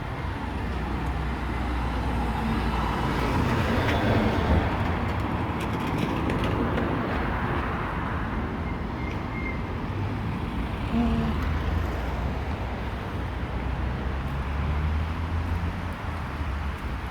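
Road traffic on a rain-wet road: a steady rush of tyres and engine rumble, with a vehicle swelling past a few seconds in.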